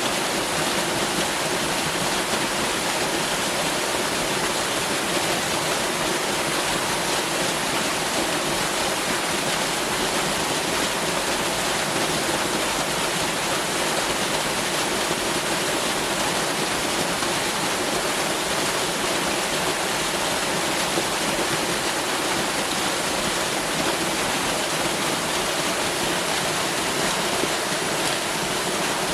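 Waterfall rushing steadily: a dense, even roar of falling water with no change in level.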